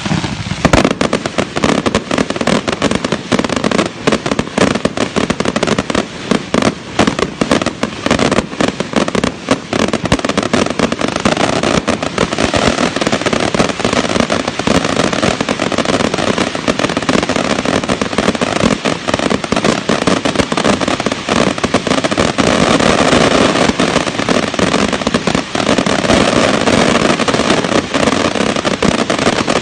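Fireworks going off: a rapid barrage of bangs and pops that thickens about halfway through into an almost unbroken crackle.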